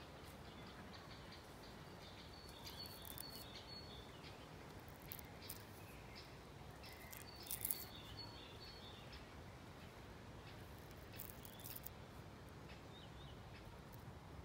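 Faint outdoor ambience with small birds chirping in short high bursts twice, plus a few brief soft rustles.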